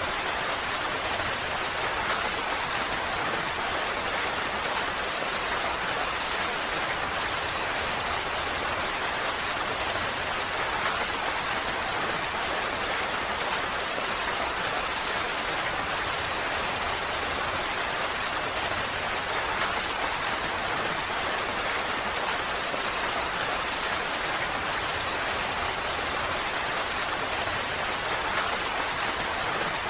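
Steady rain falling, an even hiss with faint scattered drop ticks, holding constant throughout.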